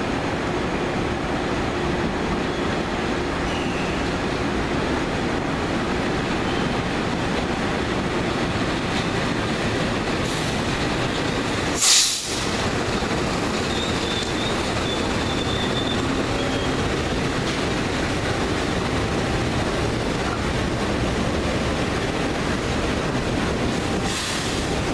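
Freight train of fuel tank wagons hauled by a CC 206 diesel-electric locomotive rolling slowly past, a steady rumble of engine and steel wheels on rail with some wheel squeal. A brief, loud burst of noise comes about halfway through, as the locomotive draws level.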